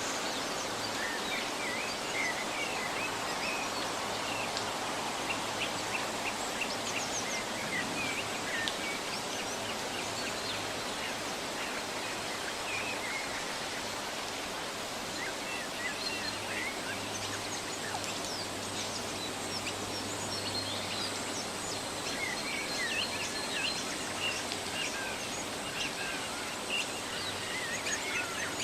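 Small songbirds chirping in short, scattered calls over a steady rushing background of forest ambience, with fewer calls in the middle stretch.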